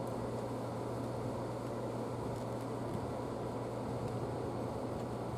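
Steady low hum and hiss of background noise with no distinct events, only a few very faint clicks.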